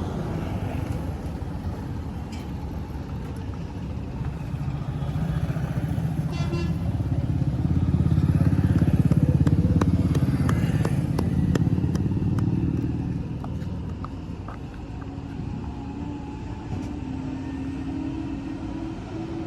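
A motor vehicle engine running, growing louder to a peak about nine seconds in and then easing off.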